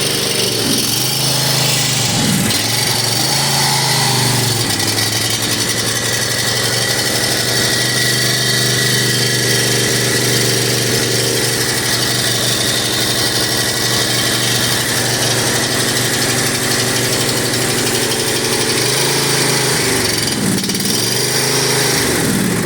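John Deere lawn mower's small gas engine running unevenly, its speed sagging and picking back up near the start and again near the end. The owner says it doesn't want to run right and thinks the fuel pump is bad.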